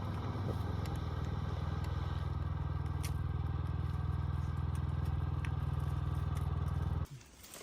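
Small boat motor running steadily at an even speed, then cutting off abruptly about seven seconds in.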